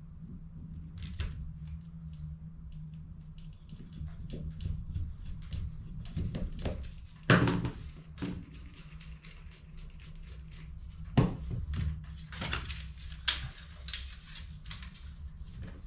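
Plastic toner-cartridge parts being handled and clicked together, with scattered clicks and knocks over a steady low hum. The loudest knock comes about seven seconds in, and a second sharp one about eleven seconds in.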